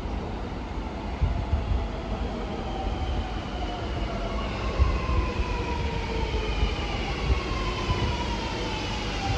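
Sydney Metro Alstom Metropolis electric train running into the station, its drive whining in several tones that fall steadily in pitch as it slows, over a low rumble of the train's running.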